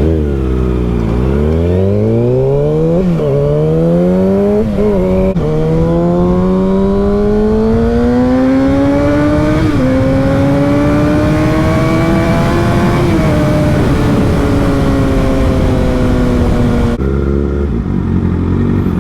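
Sport motorcycle engine under way, accelerating through several gear changes, its pitch climbing with brief dips at each shift, then holding near cruising revs. About 17 seconds in the revs drop sharply as the throttle closes. Steady wind rush runs underneath.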